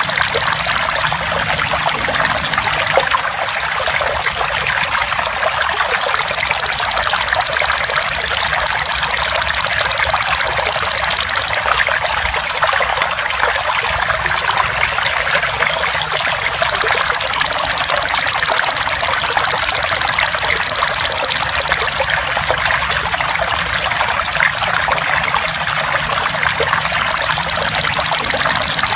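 Steady trickling water, with a loud, high, rapidly pulsing insect buzz from the belalang emas (golden grasshopper). The buzz comes in regular stretches of about five seconds separated by pauses of about five seconds, and repeats three to four times.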